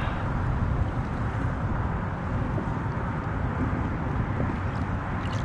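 Steady wind noise rumbling on the microphone, an even low haze with no distinct knocks or splashes.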